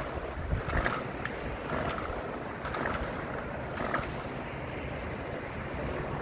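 Chainsaw's recoil starter cord pulled about four times in quick succession, each pull a short ratcheting rasp, and the engine does not catch: the saw won't start.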